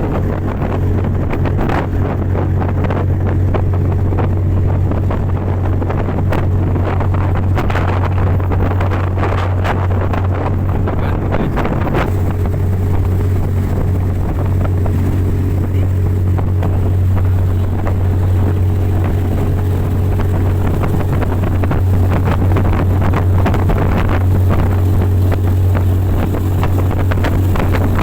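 Fast motorboat's engine running steadily at speed as a deep, constant drone, with wind buffeting the microphone and rushing water over it.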